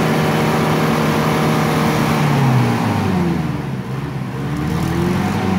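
Engine of a Nissan off-roader stuck in a deep clay pit, revving hard under load. Its pitch sags around two and a half seconds in, then climbs again.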